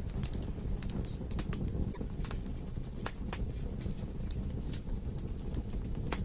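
Wood logs burning in a fireplace: irregular sharp crackles and pops, several a second, over a steady low rush of flames.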